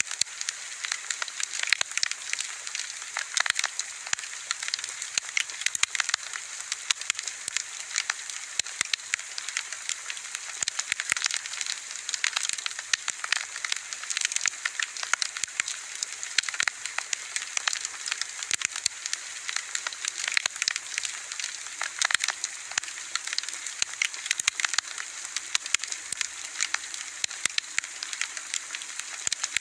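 Wood bonfire crackling and popping steadily, a dense run of small sharp snaps over a constant hiss of flame.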